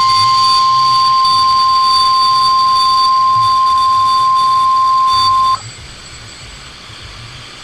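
NOAA Weather Radio warning alarm tone: a loud, steady single 1050 Hz tone that signals an alert broadcast is about to follow. It cuts off suddenly about five and a half seconds in, leaving a quiet radio hiss.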